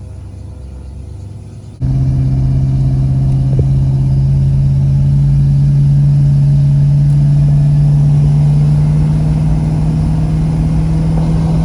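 Vehicle engine running under load while towing a truck, its steady drone slowly rising in pitch as it gathers speed. It comes in suddenly about two seconds in, after a quieter hum.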